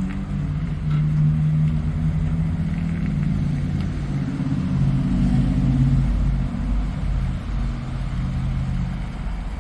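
Ford Transit 250 (T250) van engine running, its pitch rising and falling a little as it is revved lightly, with a low rumble that swells around the middle.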